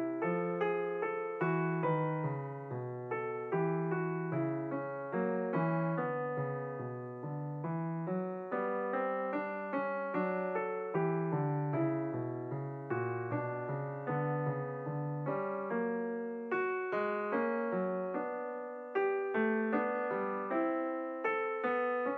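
Background music: a piano playing a gentle, steady run of notes, each struck and left to fade.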